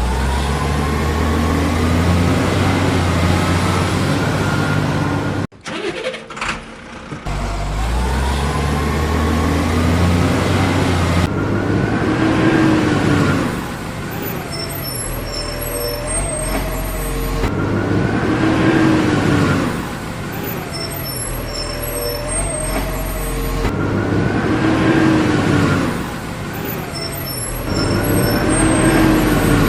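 Heavy truck engine running and revving up and down in a repeating cycle about every six seconds, with a short break about five seconds in.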